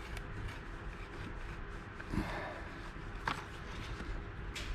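Faint handling noise of a rubber anti-vibration mount being worked out of a chainsaw housing by hand and tool, with a few light clicks.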